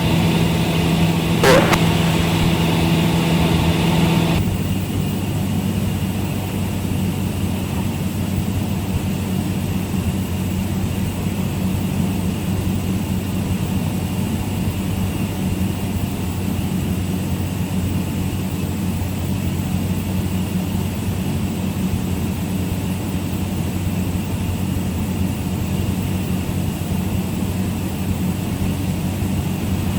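Cabin drone of a Cessna 172 Skyhawk's four-cylinder piston engine and propeller in cruise flight, steady throughout. About four seconds in, the engine note shifts lower and the sound drops slightly in level.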